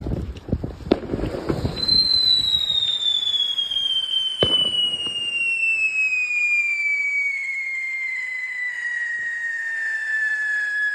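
Fireworks going off: a quick string of firecracker bangs and crackles in the first two seconds, then a long whistle that slowly falls in pitch, with one sharp bang about four and a half seconds in.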